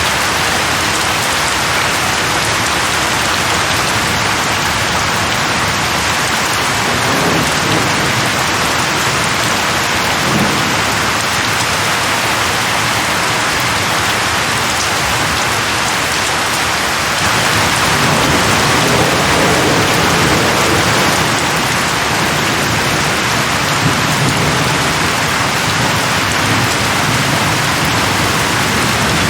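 Steady heavy rain falling on a surface, with low rolls of thunder now and then; the rain grows a little louder about halfway through.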